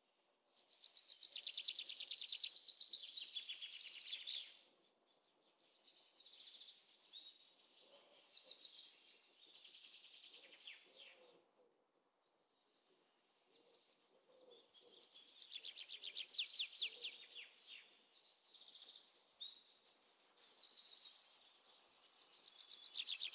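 Songbirds singing in fast trills of high repeated notes and short whistles, in three bouts with brief pauses about five seconds in and about twelve seconds in.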